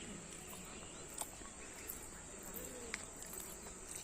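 Faint, steady insect chorus, a continuous high-pitched chirring, with a few soft ticks.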